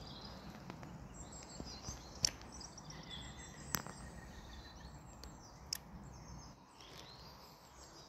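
Birds chirping over a steady low outdoor rumble, with three sharp clicks about two, four and six seconds in.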